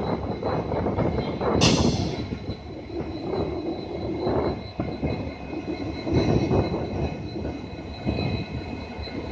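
Train rolling past on the rails, with rumbling wheels and a steady high squeal from the wheels. There is a sudden sharp burst about one and a half seconds in.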